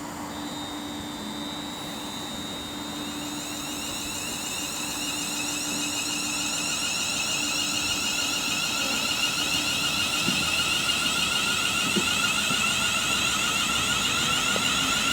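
Class 350 electric multiple unit pulling away, its traction motors giving a layered electric whine that grows steadily louder.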